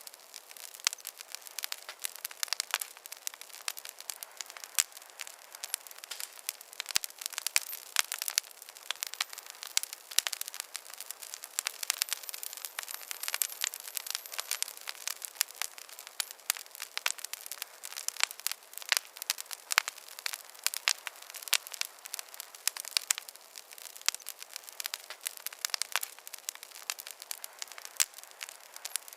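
Wood campfire crackling, a dense, irregular stream of sharp pops and snaps over a soft hiss.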